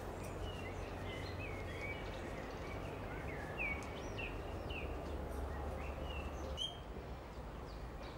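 Woodland birds chirping and whistling: many short notes, some rising and some falling, several a second, over a steady low background rumble.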